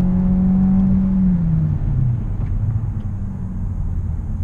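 Volkswagen Golf 1.5 eTSI's turbocharged four-cylinder petrol engine pulling at full throttle, its note rising slightly, heard inside the cabin. About a second and a half in, the throttle is released and the engine note drops away as the car slows hard, leaving tyre and road rumble.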